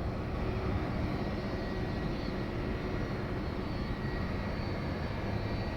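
Boeing 757-200's jet engines idling steadily, with a faint high whine, as the airliner holds in position on the runway awaiting takeoff clearance.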